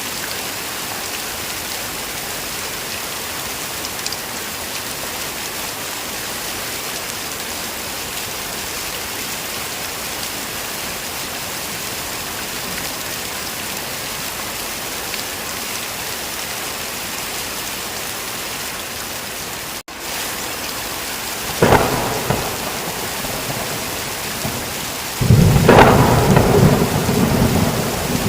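Heavy rain falling steadily, with a sharp thunderclap about twenty seconds in and a louder, longer rumble of thunder near the end.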